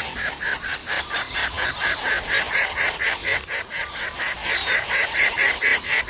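Greater coucal chicks begging in the nest: a fast, even run of raspy, hissing calls, about five a second.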